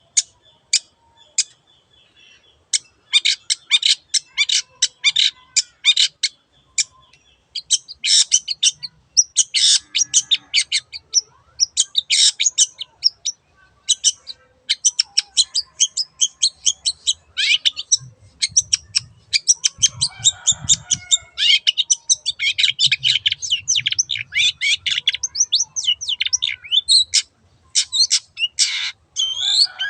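Long-tailed shrike (cendet) singing a fast, chattering song of rapid repeated high notes in dense bursts separated by short pauses.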